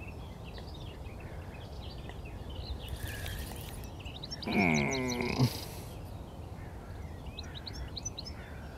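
Songbirds singing and chirping, several at once, over a low steady background noise. About halfway through comes one louder, pitched, falling call lasting about a second.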